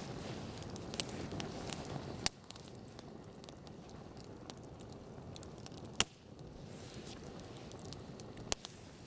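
Campfire crackling, with scattered sharp pops from the burning wood; the loudest pop comes about six seconds in.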